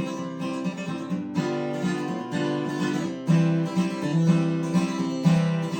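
Acoustic guitar strummed in a steady country rhythm, with single bass notes alternating with chord strums and no singing.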